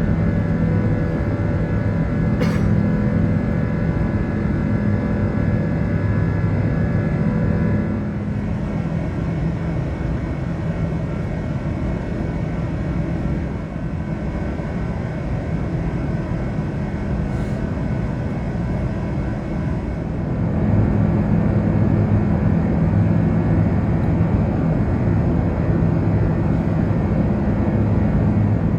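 Airbus A380 with Rolls-Royce Trent 970 engines, heard as a steady loud rumble with a few steady tones running through it. The sound changes abruptly twice, about eight seconds in and about twenty seconds in.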